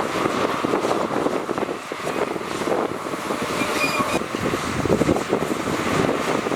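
Diesel engine of heavy earthmoving machinery running steadily, with wind noise on the microphone.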